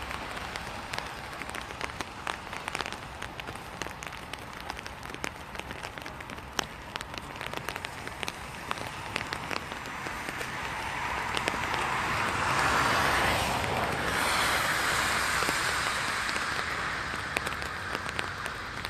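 Rain pattering on an open umbrella, many separate drops ticking over a steady hiss. About halfway through, a rushing hiss swells up and fades away over several seconds, like a car passing on the wet road.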